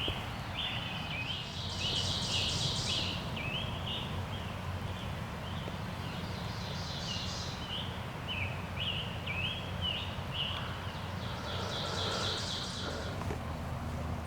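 Songbirds singing in the woods at dawn: a run of short rising chirps repeated about twice a second, with three louder buzzy trills, over a steady low background rumble.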